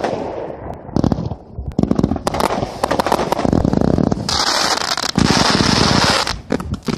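Consumer firework cake firing: rapid runs of sharp bangs and pops in quick clusters, giving way about four seconds in to a dense, continuous rush of noise.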